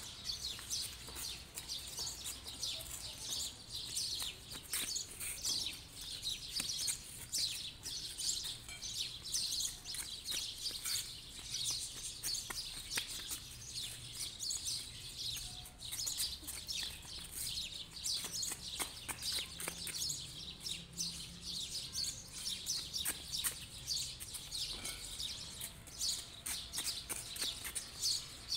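Birds chirping in a continuous chorus of many short, high calls.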